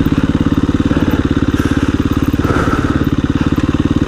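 A 2017 KTM 350 EXC-F's single-cylinder four-stroke engine running steadily with an even beat on a slow downhill, with the rider's breathing in the helmet.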